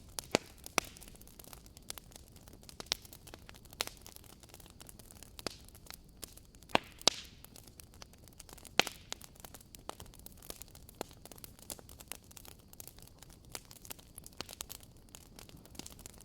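Wood fire crackling: a steady low hiss broken by irregular sharp pops and snaps, a few of them much louder, around 7 and 9 seconds in.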